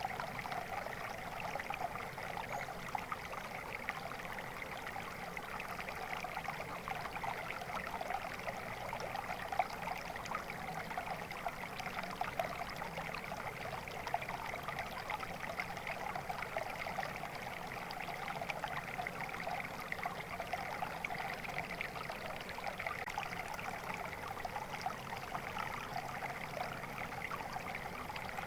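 Flowing water: a small stream or brook running and trickling steadily, with a continuous babble of small splashes.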